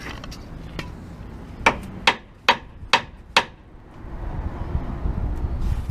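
Five quick hammer blows, a little under half a second apart, each with a short ring, followed by a low rumble near the end.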